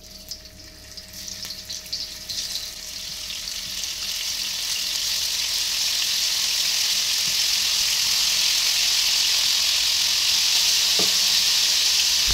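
Spice-coated cauliflower florets sizzling in hot oil in a nonstick frying pan as they are shallow-fried. It begins as separate crackling pops as the first pieces go in, then builds over the first few seconds into a loud, steady sizzle as the pan fills.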